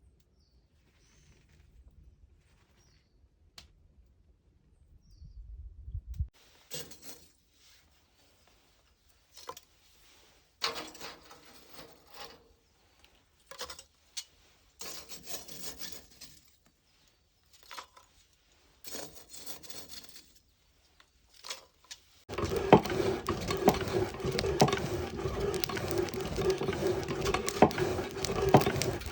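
A series of separate scraping strokes, each a second or two long, then from about 22 seconds in a steady, louder machine-like running with a humming tone and rapid clicking.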